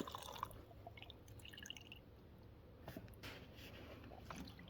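Gasoline being poured into a lawn mower's fuel tank: the pour tails off just after the start, followed by a few faint drips.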